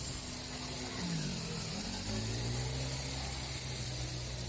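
Fish frying in oil on a hot flat tawa, a steady sizzling hiss. Under it runs a low droning tone that dips in pitch and rises again about a second in.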